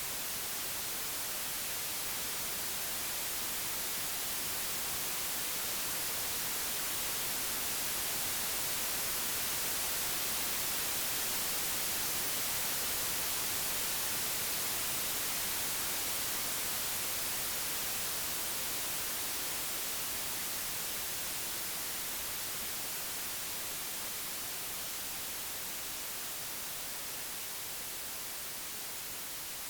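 Computer-generated white noise, an even steady hiss with no tones, swelling slowly in loudness toward the middle and easing off near the end.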